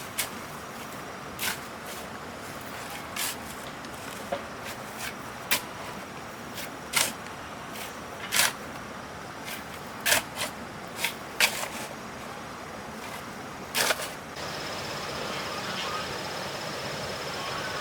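Hand tools scraping and knocking through a wet cement and sand mix, an irregular stroke every second or so. About fourteen seconds in the strokes stop and a steady hiss with a thin high whine takes over.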